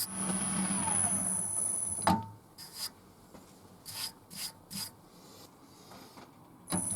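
Wood lathe running with a turning tool scraping and cutting the spinning chestnut blank, cutting off suddenly after a click about two seconds in. A quieter stretch follows with a few short scraping strokes on the wood, and the lathe runs again near the end.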